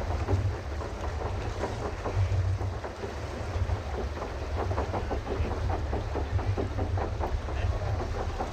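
Pedal boat under way on a canal: a steady low rumble with continuous irregular splashing and clatter as the paddle wheel churns the water.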